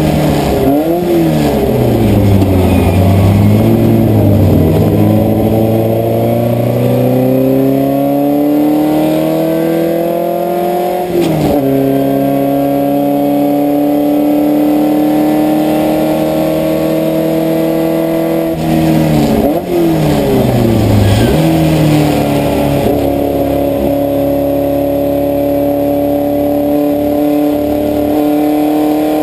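Puma race car's engine at racing speed, heard from inside the car. Its pitch dips and climbs with downshifts and throttle blips near the start, climbs through a gear to an upshift about 11 seconds in, dips again for downshifts around 19 to 21 seconds, then pulls on at high revs.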